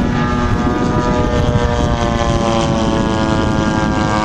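The XYZ 53cc twin-cylinder gas engine of a radio-controlled Fw 190 D9 model plane running in flight, driving its propeller with a steady drone whose pitch slowly sinks.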